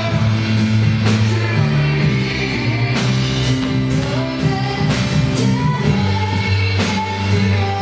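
Live gospel worship band playing: drum kit, bass guitar and piano, with a voice singing over them. The drums keep a steady beat under shifting bass notes.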